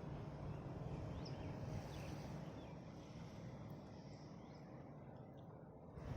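Outdoor rural ambience: a steady low rumble with a few short, high rising bird chirps.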